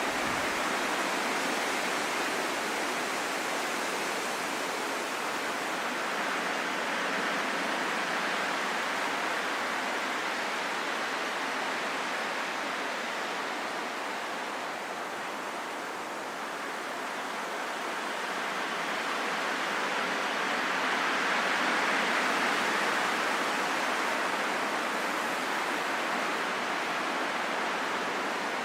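Wind blowing as a steady rushing hiss, easing a little about halfway through and then swelling again before settling back.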